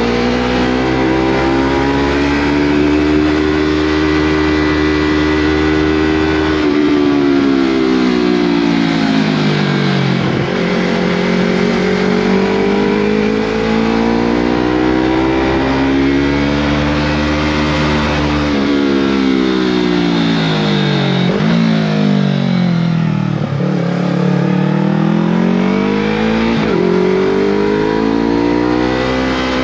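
Yamaha MT-03 engine through a Scorpion full-system exhaust, pulling uphill under load: the exhaust note climbs and falls in long swoops as the throttle is opened and closed, with two quick drops in pitch a little past two-thirds through.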